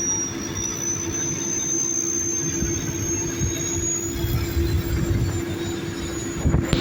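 Diesel engines of heavy earthmoving machines running under load, a steady low rumble with a hum and a thin high-pitched whine above it. A sharp click comes near the end.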